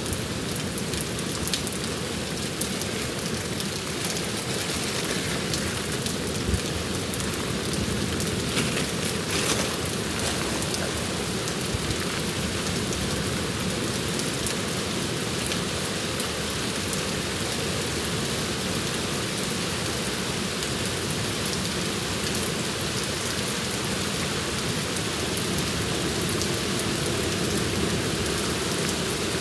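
Steady rain falling, with a few sharper drop hits standing out.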